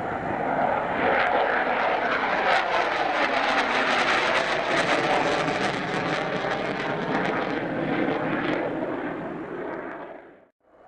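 Military fighter jet taking off and passing close, a loud jet roar that swells, holds with a ragged crackle through its loudest part, then fades and cuts off suddenly near the end.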